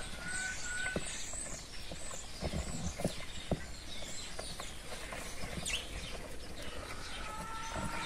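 Small birds chirping and twittering in short high calls over a low background hiss, with scattered faint clicks.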